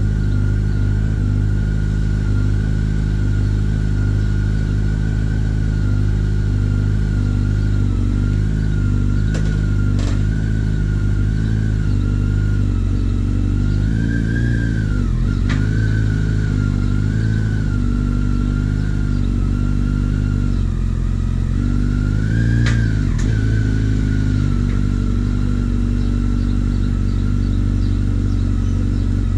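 Yamaha FZ1's inline-four engine idling steadily, with two brief throttle blips, one about halfway and one about three-quarters through, and a few sharp clicks.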